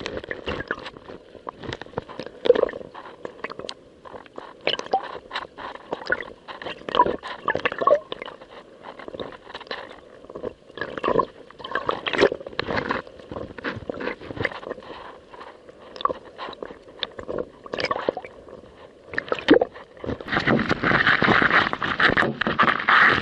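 Small waves slapping and gurgling against a kayak's hull in irregular splashes. About twenty seconds in, a louder, steadier rush of water sets in.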